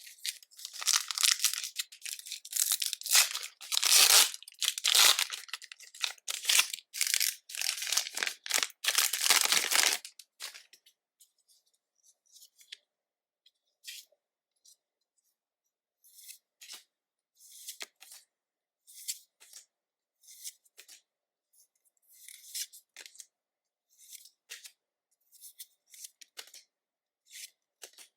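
A Pokémon trading-card booster pack's foil wrapper being torn and crinkled open for about ten seconds. Then come sparse, light ticks and taps of cards being handled.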